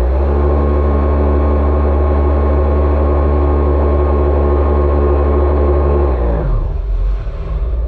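Jet ski engine running at a steady high speed, then easing off about six seconds in, its pitch falling as the throttle is let go, leaving a lower, rougher rumble.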